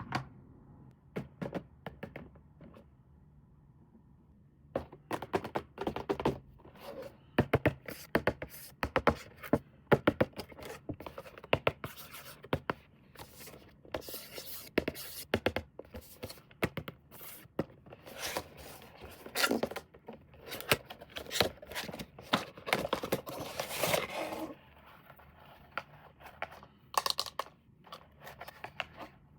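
Hands unboxing a toy: packaging scraped, rubbed and knocked in quick, irregular clicks and scrapes. Only a few sparse knocks at first, busy handling from about five seconds in, easing off near the end.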